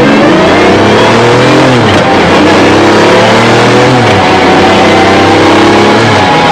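Mercedes-AMG CLK-GTR V12 accelerating hard, the exhaust note climbing in pitch and dropping sharply at upshifts about two, four and six seconds in.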